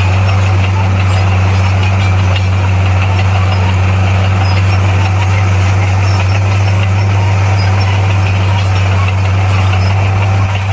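Bulldozer's diesel engine running steadily with a deep, unchanging hum.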